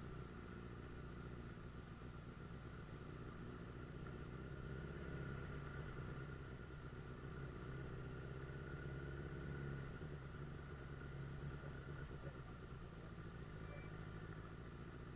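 Suzuki GSF 600 Bandit S inline-four engine running at steady revs.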